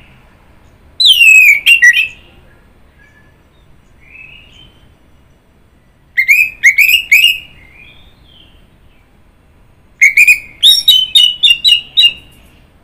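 Orange-headed thrush (anis merah) singing: three loud phrases of quick, falling whistled notes, about a second in, around six seconds and near ten seconds. Fainter, softer calls come between the phrases.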